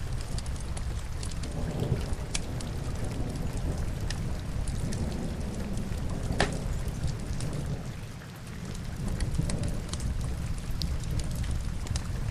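Rain-and-fireplace ambience: a steady, low rumbling rain hiss with scattered sharp crackles of burning logs, one louder pop about six seconds in.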